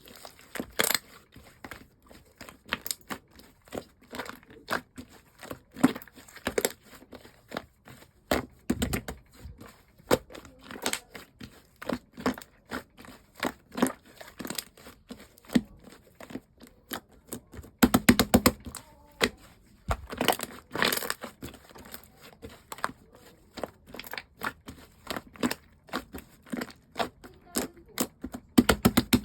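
Slime being squeezed, stretched and poked by hand, giving irregular sticky clicks, pops and crackles, with denser, louder clusters about two-thirds of the way through.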